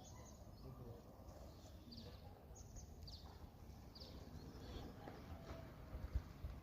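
Short, high bird chirps repeating every second or so over a low outdoor rumble, with a single thump near the end.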